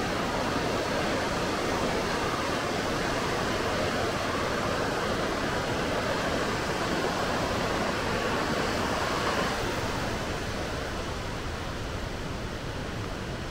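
Steady rushing of falling water from a waterfall, easing off a little about ten seconds in.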